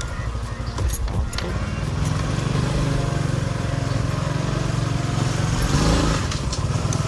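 Honda RS125 FI motorcycle's single-cylinder engine running steadily under way, with wind noise rumbling on the helmet-mounted earphone mic. A few short clicks come in the first second or so.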